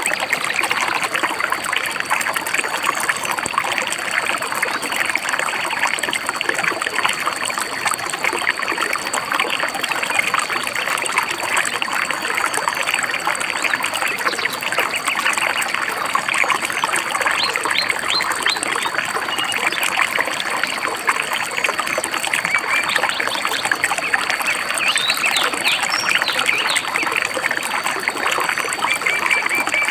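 A stream babbling and trickling steadily, with small birds chirping briefly now and then in the second half and a short trill near the end.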